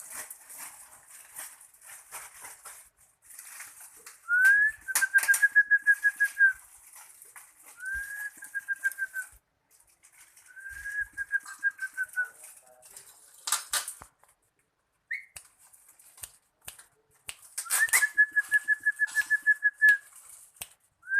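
A pet bird calling in four rapid, steady trills, each lasting about a second and a half to two seconds and starting with a quick upward slide, with a short chirp between the third and fourth. Sharp rustling and wing flutters sound between the calls.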